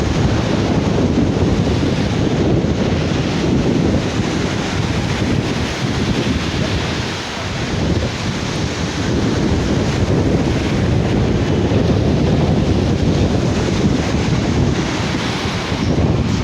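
Sea waves washing on a beach, with wind buffeting the microphone in a loud, gusty rumble.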